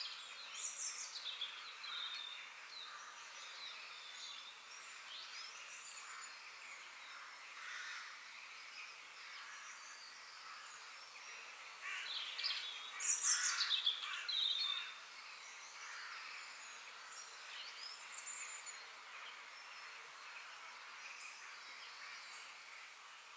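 Birds calling and chirping, short notes and quick sweeps from several birds over a faint steady background hiss, with a louder run of rapid calls about halfway through.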